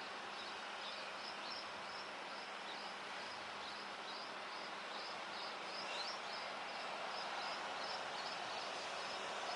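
Steady outdoor background noise with a rapid run of short high chirps, about two or three a second. The noise grows slightly louder over the second half.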